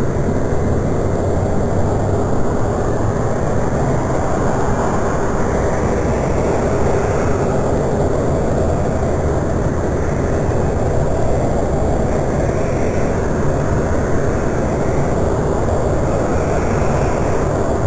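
Jet airliner engines running, a loud steady noise that holds level without a clear rise or fall.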